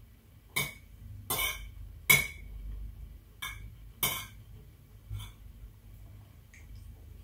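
A metal spoon scraping and clinking against a plate as fried rice is scooped up, about six short strokes over the first five seconds, some with a brief ringing tone.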